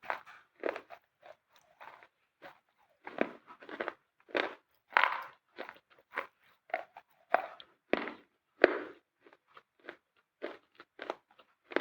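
Close-up bites and chewing of a dry, crunchy white food: a run of irregular crisp crunches, one or two a second, some louder snaps among them.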